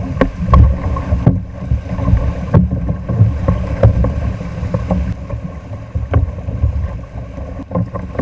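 A kayak running river rapids: rushing water with a heavy low rumble, broken by frequent sharp knocks.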